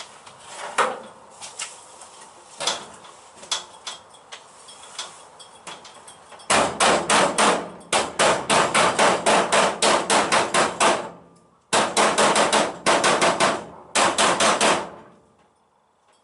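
Hammer blows on steel car bodywork: scattered single strikes, then fast runs of about five or six blows a second in three bursts with short pauses, stopping near the end.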